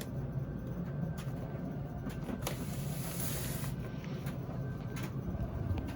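Steady low hum of a running laundry machine, with a few light knocks and a brief hiss about halfway through.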